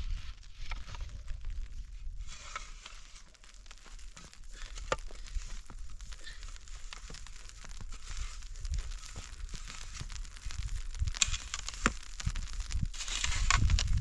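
Irregular crinkling and crackling handling noise with scattered sharp clicks, growing louder and busier in the last few seconds, with a low rumble near the end.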